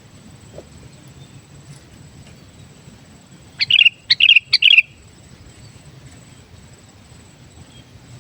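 Sooty-headed bulbul (kutilang) giving three quick, loud song phrases about midway through, over a faint low background hum.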